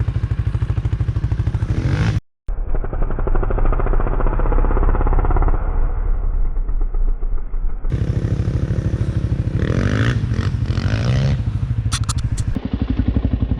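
Quad ATV engine running as it is ridden over sand, with some rattle from the machine. It drops out for a moment about two seconds in, and a duller-sounding stretch follows before the fuller engine sound returns near the eight-second mark.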